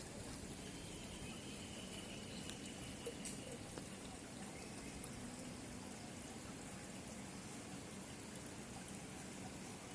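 Steady rushing and trickling of running water.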